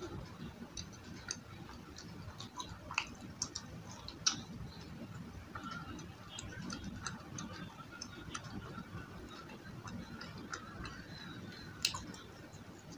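Close-up chewing of crunchy battered fried food with the mouth closed: irregular wet clicks and crackles, with a few sharper crunches about three and four seconds in and again near the end.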